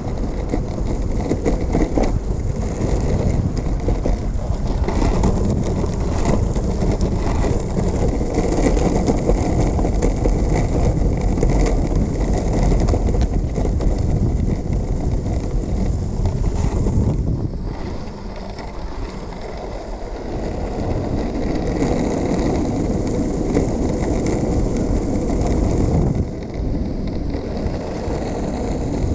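Wind buffeting the microphone over a steady low rumble, easing for a couple of seconds about two-thirds of the way through.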